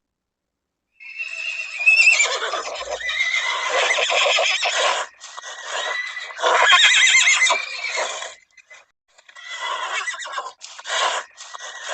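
Horses neighing and whinnying, a run of loud, quavering calls starting about a second in, with short pauses between them.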